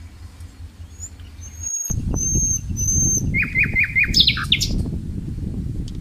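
A songbird singing: a few short, high whistled notes, then a quick run of about five downslurred notes and a couple of higher sweeping notes. Underneath is a low rumbling noise that gets louder about two seconds in.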